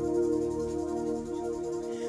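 Sustained keyboard chords of slow worship music held between sung lines.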